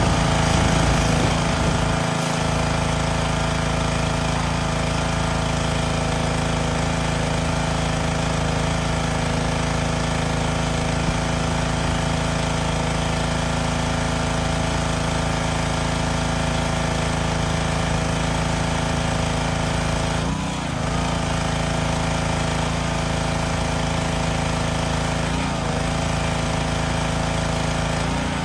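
Pressure washer running steadily while rinsing and foaming, its pump motor giving a steady droning hum. The pitch dips briefly twice, about twenty and twenty-five seconds in.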